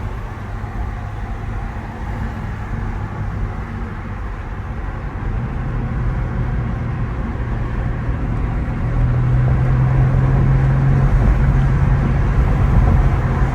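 BMW G80 M3's twin-turbo straight-six engine running under way with road noise, its note growing louder and rising slightly in pitch from about halfway through as the car accelerates.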